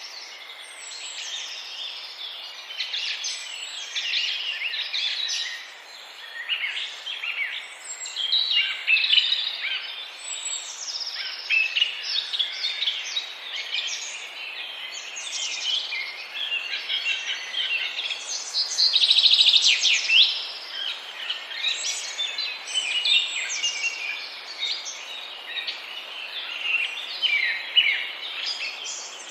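A flock of birds calling continuously, with many short, high chirps overlapping one another and a louder flurry about two-thirds of the way through.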